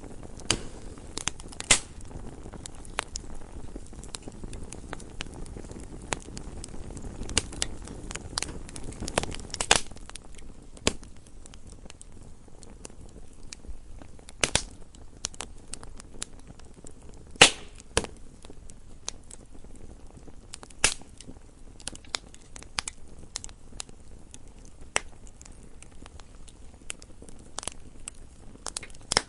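Wood fire burning in a fireplace: irregular sharp crackles and pops from the burning logs over a soft low hiss of the flames, with a few louder snaps, the loudest about seventeen seconds in.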